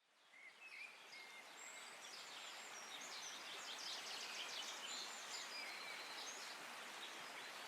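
Ambience recording of birds chirping and calling over a steady hiss, fading in at the start.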